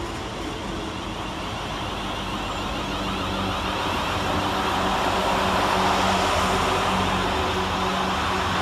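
Pair of Class 444 Desiro electric multiple units at the station platform, a steady running noise with a low hum that grows gradually louder over the first six seconds.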